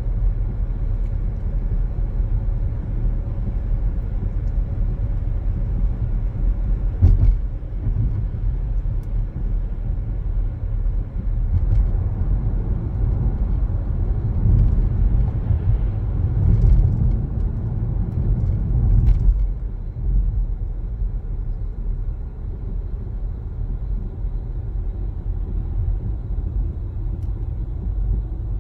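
A car driving along, its steady low road and engine rumble swelling for a while in the middle, with a brief knock about seven seconds in and another near nineteen seconds.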